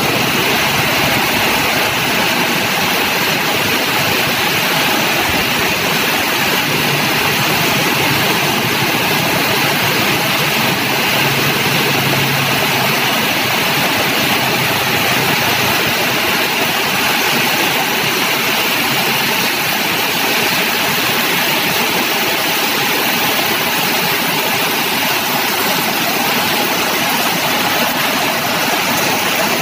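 Heavy rain falling in a steady hiss, mixed with the engines of passing cars and motorbikes and their tyres splashing through floodwater on the road.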